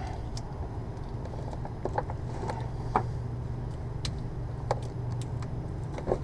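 A handful of short clicks and knocks from hands and tools working on the new spin-on oil filter as it is snugged a little tighter, over a steady low hum.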